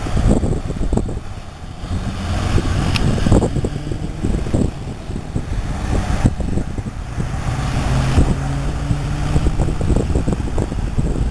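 A road vehicle's engine running steadily while driving, with a low rumble of road noise and scattered knocks and rattles.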